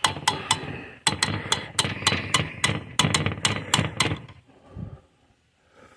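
Metal barbecue tongs clicking and clacking against the grill grate as sauced chicken wings are set on the charcoal pit. There are about fifteen sharp clicks in quick, uneven succession, and they stop a little over four seconds in.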